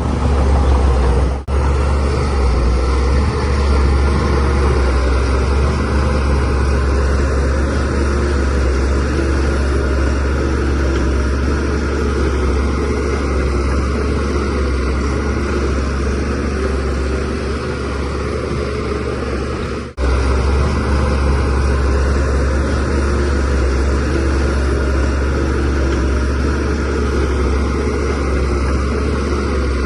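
DH17C3PRO bulldozer's diesel engine running steadily under load with a deep, low rumble, broken twice by a momentary gap.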